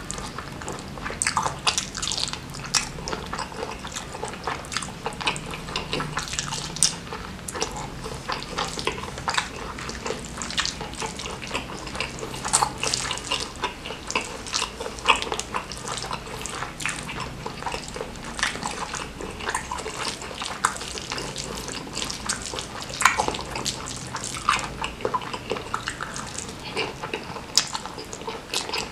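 Close-miked wet chewing and lip smacking of a mouthful of rice and saucy stir-fried squid, with fingers squishing through the sauce-soaked rice; a dense, irregular run of small clicks and smacks.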